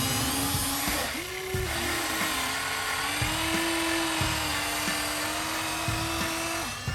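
Electric gear motors of radio-controlled construction machines whining, their pitch rising and falling and cutting out briefly every second or so as the controls are worked.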